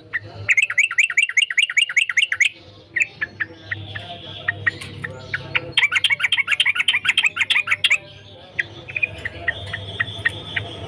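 Yellow-vented bulbul (trucukan) song: rapid runs of sharp chattering notes, about ten a second, in bursts of roughly two seconds separated by looser, scattered notes. A low steady hum lies underneath.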